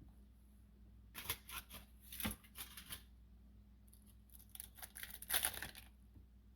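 Crisp crinkling and scraping noises in two short clusters, about a second in and again about four seconds in, from food being handled and served onto a plate.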